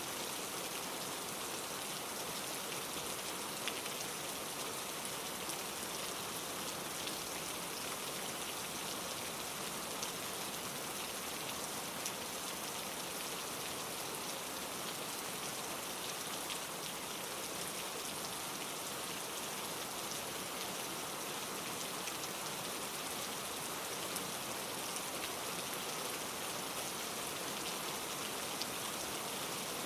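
Steady rain pattering on leaves: an even hiss with occasional sharper drop ticks here and there.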